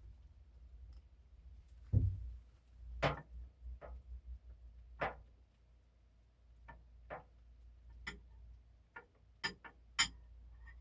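Irregular sharp clicks and knocks, about a dozen, with a low thump about two seconds in: kitchen things being handled.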